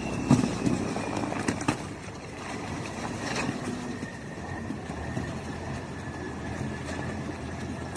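KrAZ timber truck's diesel engine running steadily under load, with a faint, slowly falling whine. A few sharp knocks come in the first two seconds.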